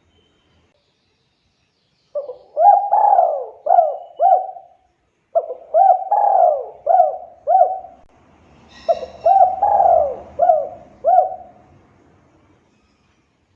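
Spotted dove (tekukur) in full song: three phrases of four or five mellow, repeated coos each, separated by short pauses.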